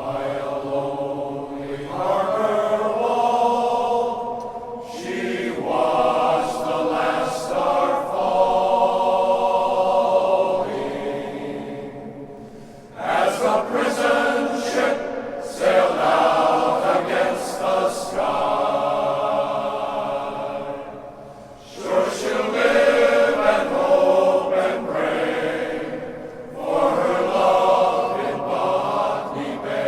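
Glee club choir singing a song in long sustained phrases, with brief pauses between them.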